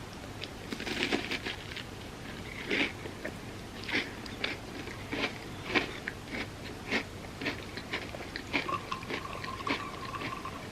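Close-up sound of a person chewing crunchy food, with crisp crunches about twice a second.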